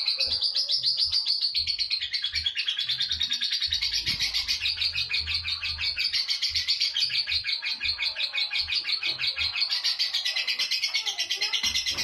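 Lovebird singing a long unbroken 'ngekek': a rapid chatter of short high notes repeated many times a second, held steadily without a pause.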